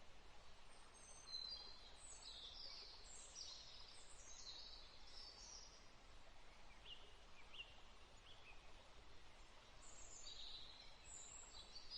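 Faint birdsong: runs of quick, high chirps that fall in pitch, with a sparser stretch in the middle and more chirping near the end.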